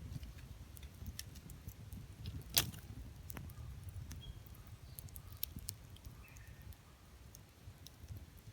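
Wood campfire crackling, with scattered sharp pops of burning firewood and one loud pop about two and a half seconds in, over a low steady rumble.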